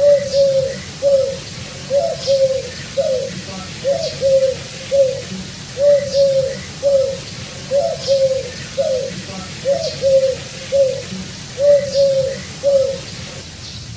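Dove cooing: a long series of short, low coos, about two a second, stopping about a second before the end.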